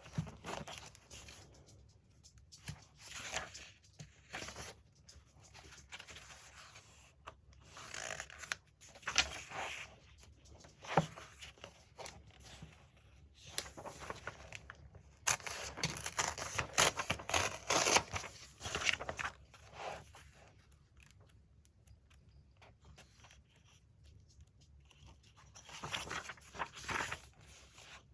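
Magazine paper being cut out and torn by hand, in irregular bursts of crisp tearing and rustling with short pauses, busiest a little past the middle.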